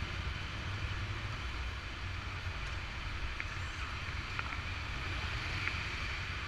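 Motorcycle engine running under a steady rush of wind noise. Its low hum fades about a second in, and a few short high chirps come in the second half.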